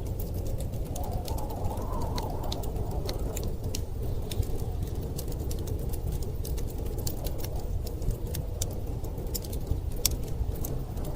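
Fireplace crackling, sharp irregular pops and snaps, over a steady low rumble of blizzard wind that rises briefly into a higher howl a second or two in.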